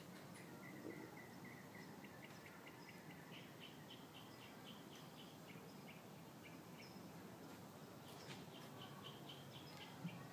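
A bird singing faintly: runs of short repeated chirps, about four or five a second, each run on its own pitch, over a quiet outdoor hiss. A single sharp click near the end.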